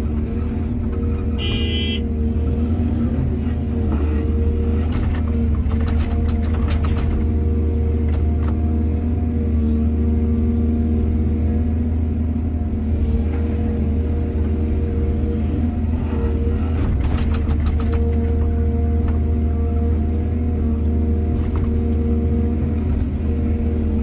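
Heavy diesel engine of an excavator working, running steadily with a deep rumble, with a few short clanks of the machine's bucket and metal parts around five to seven seconds in and again near seventeen seconds.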